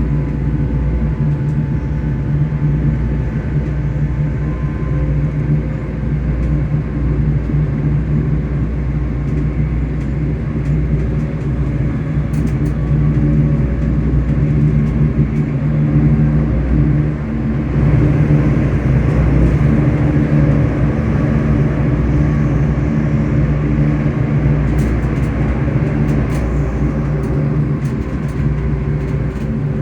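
ScotRail Class 385 electric multiple unit's traction motors humming steadily under way, over the rumble of the train running on the rails, swelling slightly in the middle.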